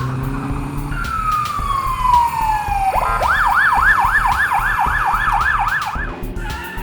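Fire-truck siren: one long falling tone, then a fast yelp sweeping up about four times a second for some three seconds, over a low rumble.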